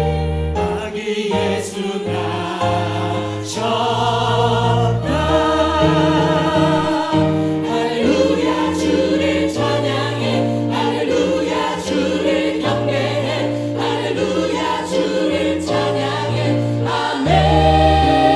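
Church choir singing a gospel praise song in held, wavering chords over instrumental accompaniment, with a steady bass and sharp beats every few seconds.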